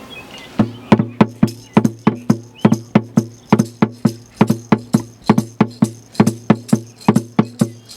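A drum beaten in a steady rhythm, about three to four strokes a second, each stroke with a deep ringing tone. It starts under a second in and keeps going.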